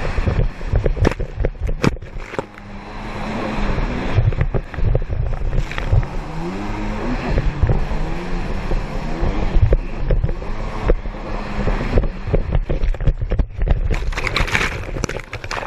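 Racing jet ski engines revving up and down, mixed with water and wind noise and frequent short knocks.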